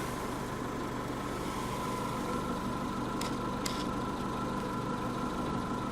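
2013 TagAZ Aquila's 1.6-litre four-cylinder engine idling steadily, heard from inside the cabin, with a faint steady whine over it and two light clicks a little past halfway.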